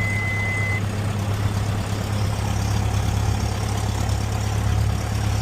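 Lycoming IO-360-L2A four-cylinder, fuel-injected piston aircraft engine idling steadily just after start. A steady high beep stops under a second in.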